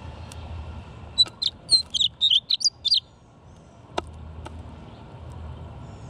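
A songbird sings a quick, jumbled burst of high chirping notes lasting about two seconds, then two sharp clicks follow about a second later. A steady low rumble of distant traffic runs underneath.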